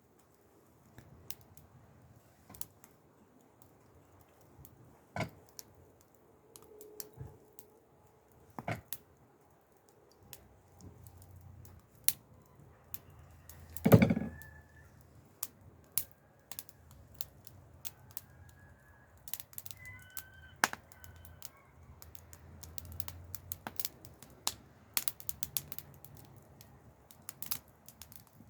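Wood fire crackling, with irregular sharp pops and snaps and one louder knock about halfway through.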